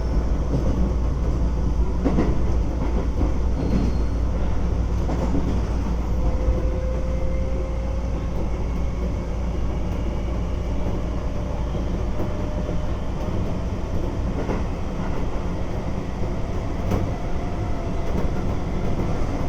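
Keisei 3400 series chopper-controlled electric train running at speed: steady rumble of the wheels on the rails with occasional clicks at the rail joints. A faint tone from the drive slowly rises in pitch from about six seconds in.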